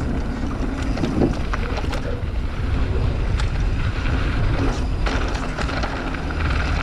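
Wind rushing over the microphone as a mountain bike rolls down a dirt trail, with scattered clicks and rattles from the bike over rough ground.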